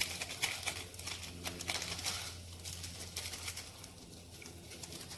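Pot of boiling water with ramen noodles in it, bubbling with many small irregular pops and clicks over a steady low hum.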